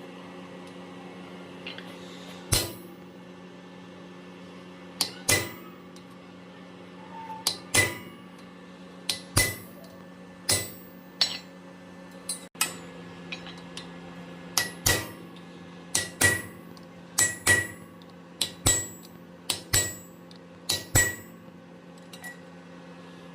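Hand hammer striking a fuller held on steel over an anvil, fullering grooves into a forged bar. About twenty ringing blows, irregularly spaced and often in quick pairs, over a steady low hum.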